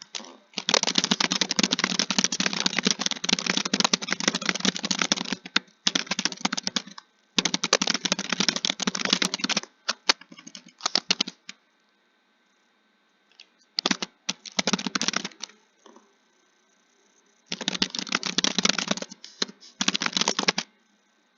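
Rapid typing: dense runs of key clicks lasting a few seconds each, broken by short pauses, the longest of them a few seconds after the middle.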